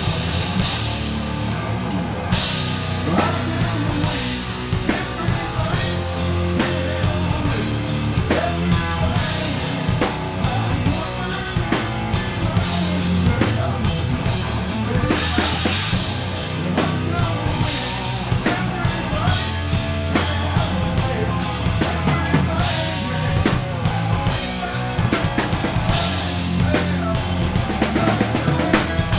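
Live grunge rock band playing a song at full volume, with the drum kit driving it: steady kick drum and snare hits under a dense wall of band sound.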